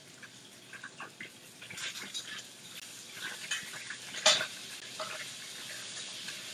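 Chicken thigh pieces frying in hot oil in a pan, a steady sizzle with scattered small clicks and one sharp knock about four seconds in.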